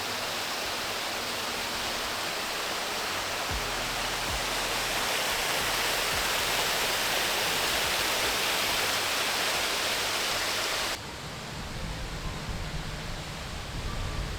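Steady rush of water from a waterfall, swelling slightly in the middle. It cuts off abruptly about eleven seconds in, giving way to a quieter, lower rumble.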